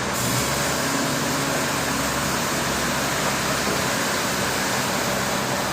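Steady noise of running machinery: a broad, even hiss with a low hum underneath.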